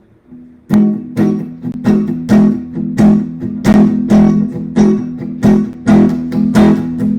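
Acoustic guitar strummed in a steady rhythm, about three strums a second, starting just under a second in: the instrumental intro of a song.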